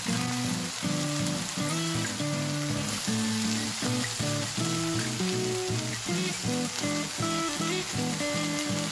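Beef ho fun (flat rice noodles with beef and beansprouts) sizzling steadily in a hot frying pan as it is stir-fried and tossed with chopsticks. Background music with a run of low notes plays over it.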